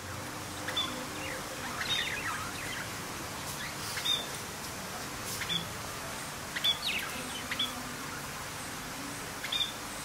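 Birds chirping: short, sharp calls that sweep down in pitch, every second or two at uneven intervals, over a steady background hiss.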